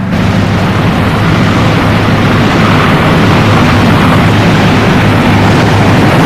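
Loud, steady roar of a burning oil-well fire being fought, with a low steady hum underneath; the sound starts abruptly.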